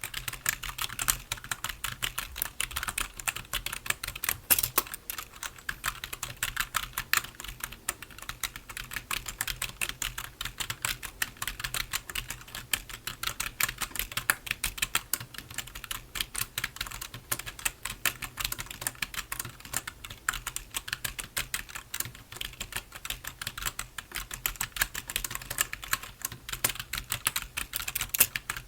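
Continuous fast typing on a computer keyboard: a steady, dense stream of key clicks without pauses.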